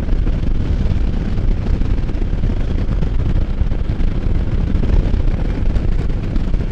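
Steady, heavy wind rush buffeting a helmet-mounted microphone on a moving Can-Am Spyder F3 three-wheeled motorcycle, with the low rumble of the ride underneath.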